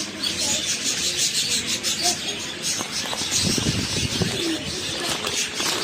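Cockatiel chattering in a rapid run of high chirps and scratchy notes. A lower voice-like warble comes in around the middle.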